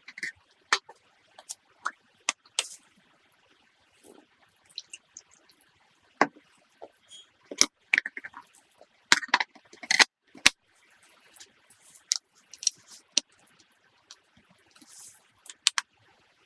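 Irregular clicks, taps and knocks of hard objects being handled, spread out with a louder cluster midway, and a short hiss near the end.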